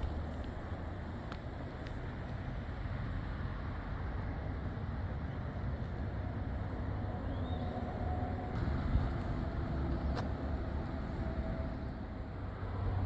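Steady low rumble and road noise of a moving vehicle, with a few faint ticks.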